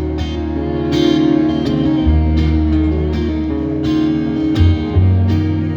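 Live country band playing a song's instrumental intro, led by guitar, with a bass line under it.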